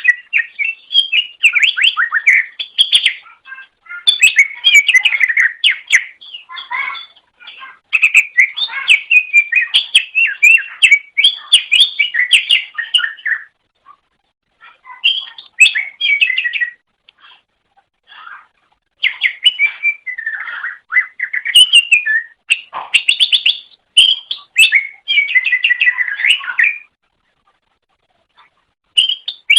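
Cucak ijo (green leafbird) singing: rapid, varied strings of chirps and whistles in phrases of several seconds, broken by short pauses and a longer pause near the end.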